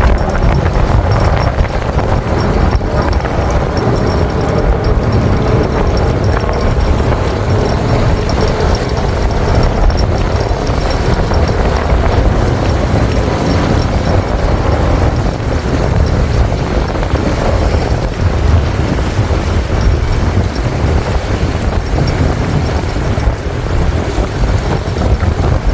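Strong wind buffeting the microphone: a heavy, unsteady low rumble.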